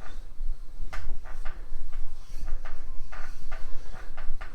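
Kent Moore barrel lap being worked back and forth in a Harley-Davidson K-Model main bearing race with lapping compound, making short scraping, rubbing strokes about two or three a second. The lap is grinding down tight spots to bring the race round and true.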